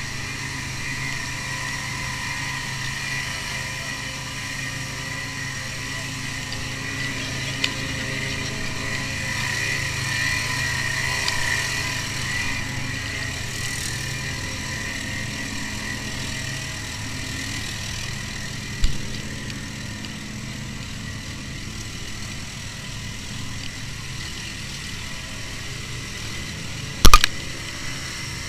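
A vehicle's engine and road noise running steadily while driving, with a steady high whine above it. A small knock comes about two-thirds of the way through and a sharp, loud knock near the end.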